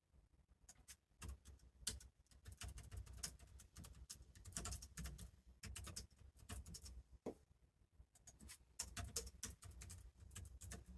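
Faint typing on a computer keyboard: two runs of quick keystroke clicks with a pause of a couple of seconds between them.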